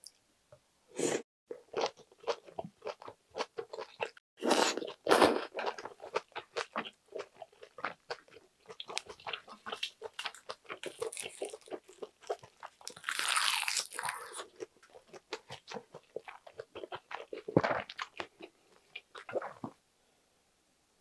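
Close-miked eating: wet chewing and biting with crackly mouth clicks, as braised kimchi, rice and seasoned seaweed are eaten. A longer rustle comes about two-thirds of the way through.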